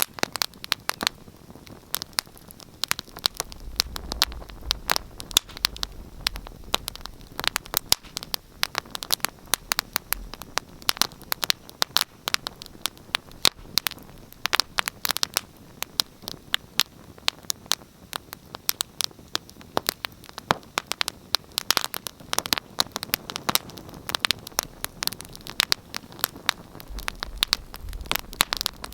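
Wood fire crackling in a fireplace: many sharp, irregular pops and snaps over a soft hiss, with a low rumble of the flames now and then.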